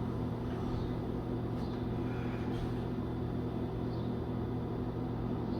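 A steady low hum made of several even tones, unchanging throughout.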